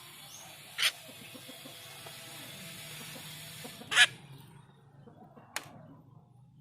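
Jalak rio-rio starling giving short, sharp calls: one about a second in, a louder one about four seconds in, and a shorter one near the end, over a faint steady hiss and low hum.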